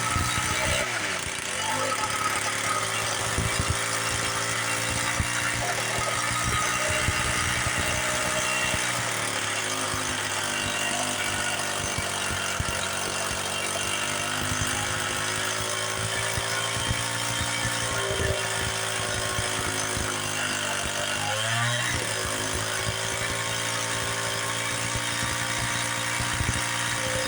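Small two-stroke weed-whacker/chainsaw-type engine running steadily; its pitch dips and recovers briefly about a second in and again about 21 seconds in.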